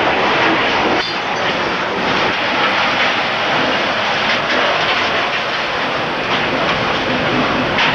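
Roar of an F4 tornado's winds at close range: a loud, steady rushing noise like a passing freight train.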